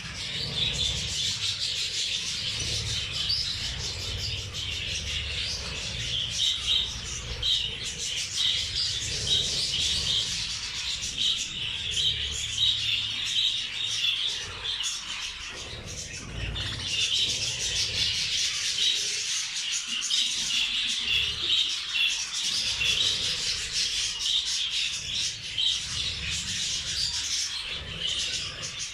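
A flock of caged budgerigars and zebra finches chirping and chattering without a break, over a low rumble.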